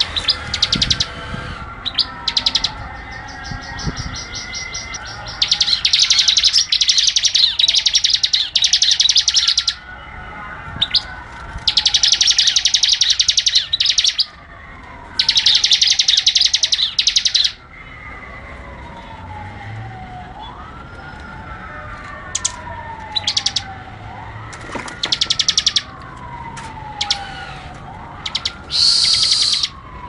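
Prinia (ciblek) song: long, very rapid machine-gun-like trills, several seconds each, broken by short gaps and turning into shorter bursts near the end. Underneath, a falling whistle repeats about every three seconds.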